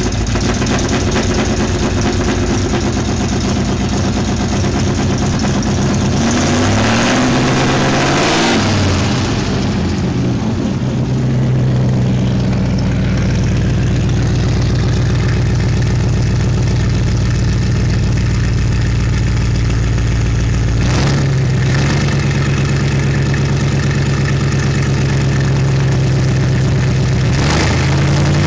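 Duesenberg straight-eight engine running: it is revved up and back down about six to nine seconds in, settles into a steady idle, then steps up slightly in pitch about twenty-one seconds in and holds there.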